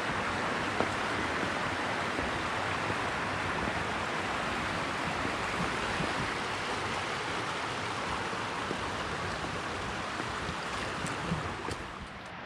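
River water rushing steadily in a full, even flow, easing slightly near the end, with a few faint clicks.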